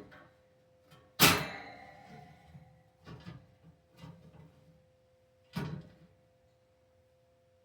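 Handling knocks from a vintage metal box fan being inspected. One loud clank about a second in rings on briefly, and three lighter knocks follow over the next few seconds.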